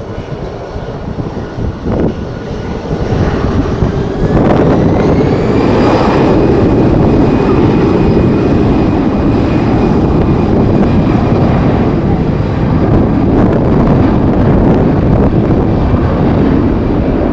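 Jet airliner engines spooling up: a whine rises in pitch a few seconds in, and the engine noise grows loud and then holds steady at high power.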